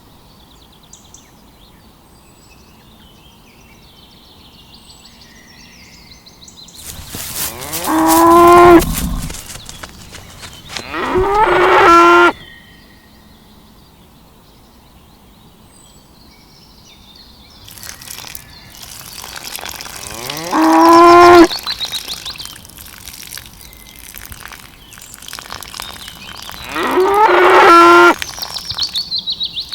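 Cow mooing four times in long, loud calls, each sliding up in pitch as it begins.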